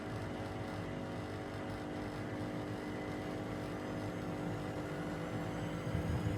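Restored Gorenje WA72147 UseLogic washing machine running with a steady motor hum. A faint whine rises slowly in pitch from about halfway through, and a louder low rumble sets in near the end as the drum picks up.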